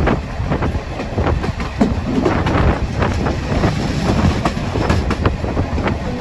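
Railway carriage of a heritage narrow train running along the track, heard from on board: a steady low rumble with irregular clicks and knocks of the wheels over the rails.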